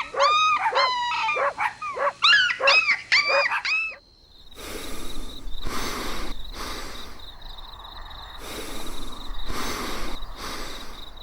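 Puppy yipping: a quick run of short, high, rising-and-falling calls, about two a second, for the first four seconds. Then softer, noisy pulses without clear calls.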